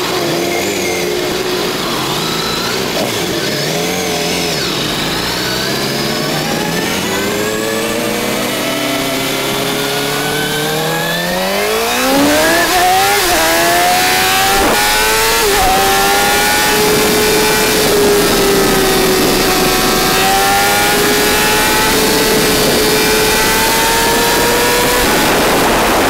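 Motorcycle engine accelerating hard, its pitch climbing steadily for about ten seconds. Two short dips in pitch follow at gear changes, then it holds a high, nearly steady note at speed under a growing rush of noise.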